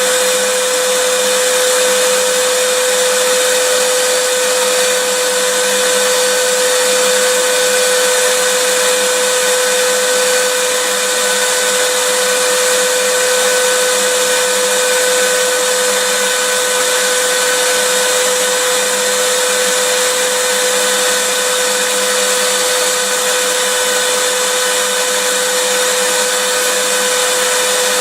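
Vacuum cleaner running steadily: an even rushing noise with a constant whine, unchanging throughout.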